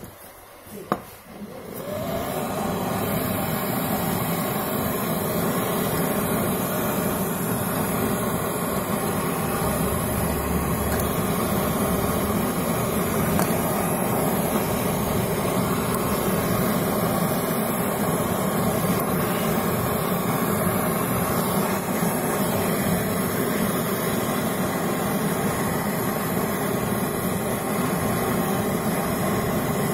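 Gas brazing torch lit with a sharp click about a second in, then its flame burns with a steady, even hiss while the refrigerator's compressor pipe joints are brazed.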